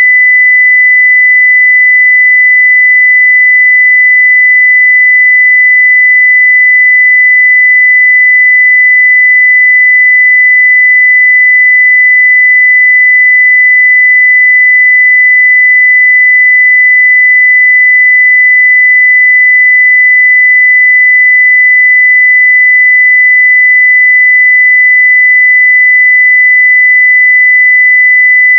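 A steady, unbroken 2 kHz sine-wave test tone at full level, one pure pitch with no change.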